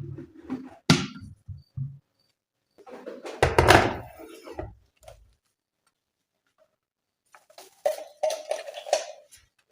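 Household handling noises in a small room: a sharp knock about a second in, a louder thud with rustling about three and a half seconds in, and a run of light clattering knocks near the end.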